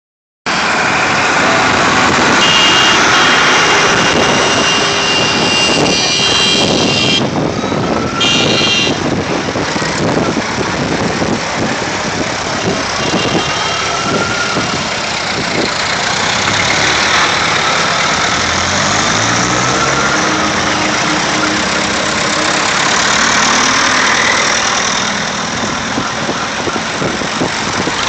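Vintage tractor engines running as a line of tractors drives by, a loud, continuous engine din. About twenty seconds in, one engine's note rises in pitch.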